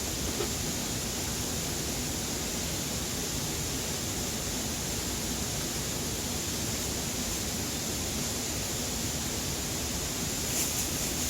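Steady rushing noise without pitch, with a few light clicks near the end.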